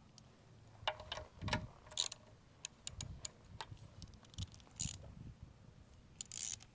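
Irregular metallic clicks and clinks of hand tools being handled, with a short rattle near the end.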